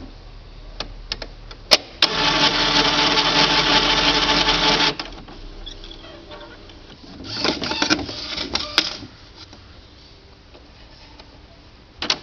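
Epson CX3700 inkjet printer mechanism running its carriage and ink cycle: a few clicks, a steady motor whir for about three seconds, then a shorter burst of whirring and clicking, and another click near the end. The cycle finishes without the carriage jamming.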